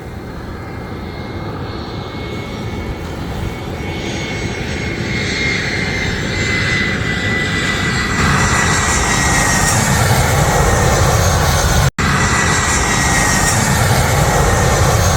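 Philippine Airlines jet airliner on its landing approach, its engine noise growing steadily louder as it comes closer, with a whine that slowly falls in pitch. The sound cuts out for an instant about twelve seconds in.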